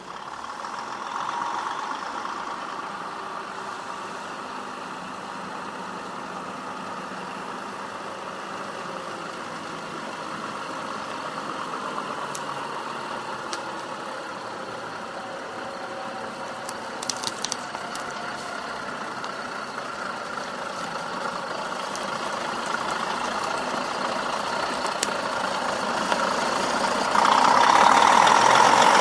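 Truck engine running steadily, growing louder over the last several seconds with a sudden jump in level near the end. A few brief clicks partway through.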